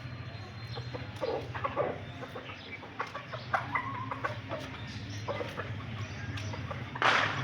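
Chickens and roosters clucking in short, scattered calls, with one louder, harsh burst about seven seconds in.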